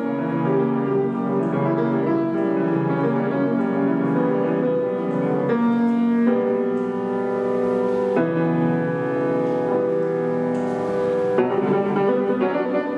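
Solo piano playing classical music, held chords under a melody that changes harmony every few seconds.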